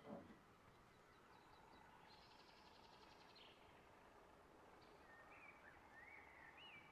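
Faint wild birds singing over a quiet outdoor background. There is a short falling sound at the very start, a buzzy trill about two seconds in, and a few short whistled phrases near the end.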